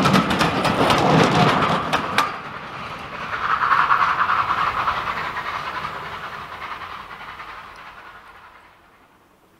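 Railway passenger coaches rolling past, their wheels clicking over the rail joints, until the last coach passes about two seconds in. The train's rumble then swells briefly and dies away into the distance.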